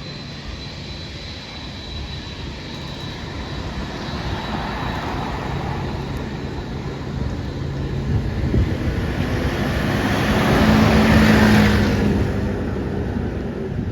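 Jet airliner's engines passing by: a steady roar that grows louder, peaks about eleven seconds in and then starts to fade, with a faint high whine early on.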